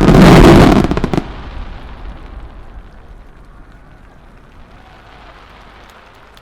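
A last dense volley of aerial firework shells bursting together, which stops about a second in. The booms then echo on as a low rumble that slowly dies away.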